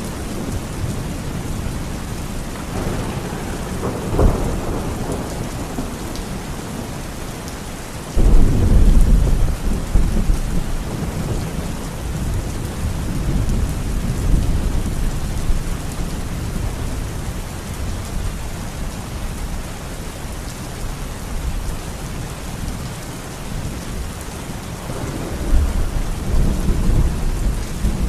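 Steady heavy rain during a thunderstorm. A sudden loud thunderclap comes about 8 seconds in and rolls on for a few seconds, with lighter rumbles of thunder before it and again near the end.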